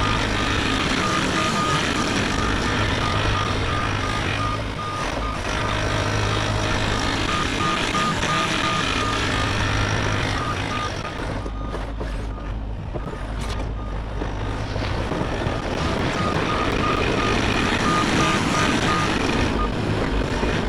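Bobcat E50 compact excavator's diesel engine running steadily under a repeating travel-alarm beep, typical of the machine tracking. The beeping stops about eleven seconds in and starts again about five seconds later.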